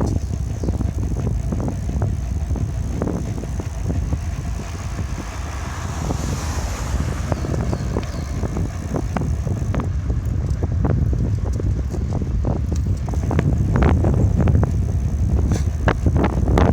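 Wind rumbling on the microphone of a camera riding on a moving bicycle, with frequent rattles and knocks from bumps in the road. A swell of road noise comes and goes about six seconds in.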